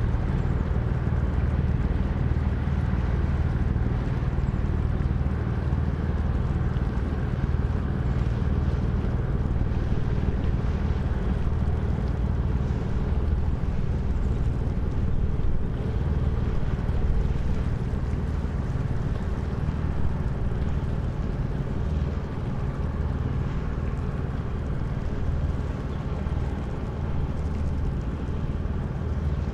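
Engine of a river sand barge running steadily, a low even drone, with wind noise on the microphone.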